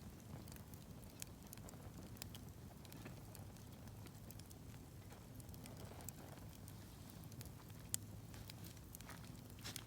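Wood campfire burning with faint, sporadic crackles and pops, one sharper pop about eight seconds in, over a low steady rumble.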